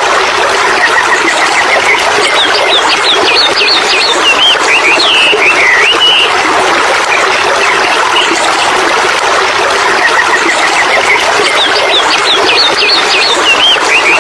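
A stream running steadily with a bird singing over it, twice: a quick run of short notes that slowly rises, then a string of fast up-and-down whistled notes.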